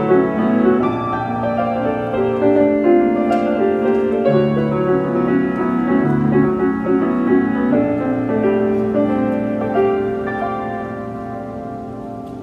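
Solo jazz piano improvisation: sustained chords and melody notes that fade away over the last few seconds as the piece ends.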